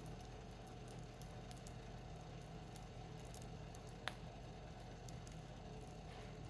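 Wood fire burning in a Picogrill fire pit, crackling faintly, with one sharp pop about four seconds in.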